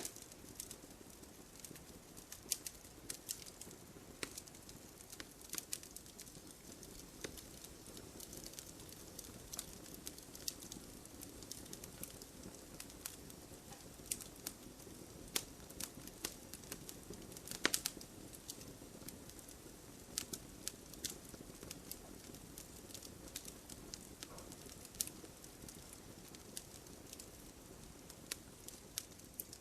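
Wood fire burning in a fireplace: logs crackling with sharp, irregular pops over a soft, steady rumble of flame, with a louder pop a little after halfway.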